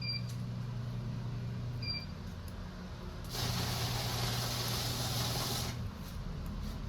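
A steady hiss of rushing air or spray lasting about two and a half seconds, starting about three seconds in, over a low steady hum. Two faint short high tones come before it.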